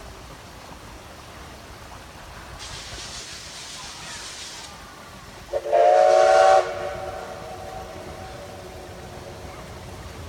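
Steam locomotive of the Oigawa Railway letting off a hiss of steam for about two seconds, then sounding its steam whistle in one loud blast of about a second, several tones together, with a fainter trail of the same note lingering a little after.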